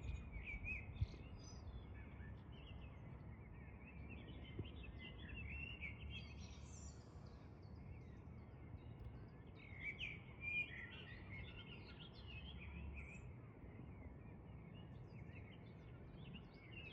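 Faint birds chirping on and off, a little livelier about six seconds in and again around ten seconds, over a low steady background noise.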